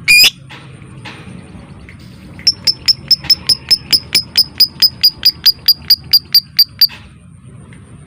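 Lovebird calling: one loud, brief shrill screech at the start, then a long run of sharp, evenly spaced chips at about five a second, the repeated 'ngetik' (typing) call. The chips stop suddenly near the end.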